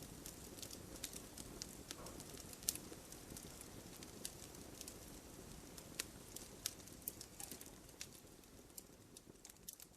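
Campfire of burning logs crackling: frequent sharp pops and snaps over a low, steady rush of flame, fading down near the end.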